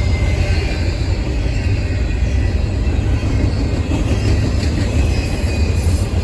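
Train passing close by, a steady loud low rumble.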